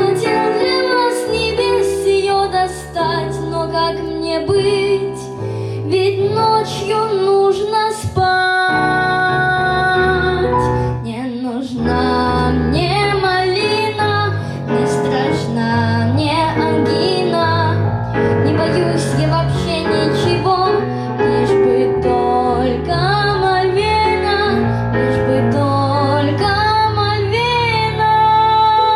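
A young girl singing a pop song over instrumental accompaniment with piano or keyboard and a bass line.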